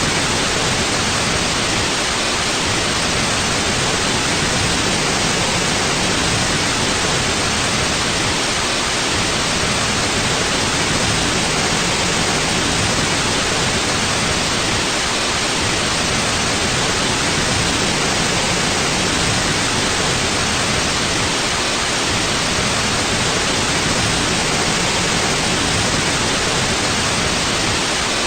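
Steady, unchanging white noise, an even hiss with no other sound in it.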